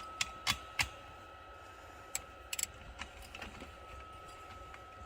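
Scattered sharp clicks and light taps from hand work on a truck heater's wiring: three in the first second, then a few more about two to two and a half seconds in. A faint steady high whine runs underneath.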